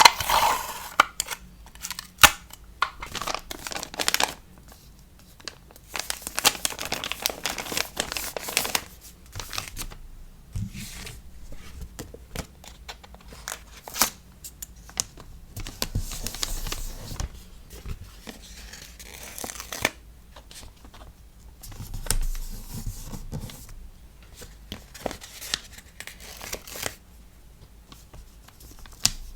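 Hands packing a sticker order: paper and plastic packaging crinkling and tearing in irregular stretches, with scattered taps and clicks between them.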